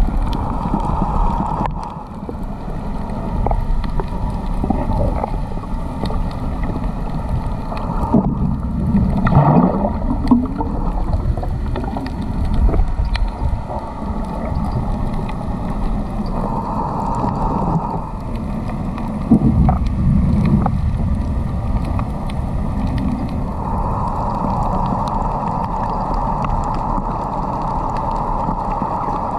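Low rumbling water noise with gurgling and sloshing, and a mid-pitched hum that comes and goes.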